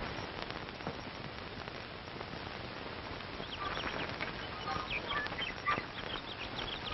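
Steady hiss of an old film soundtrack, with a run of short bird calls that starts about three and a half seconds in.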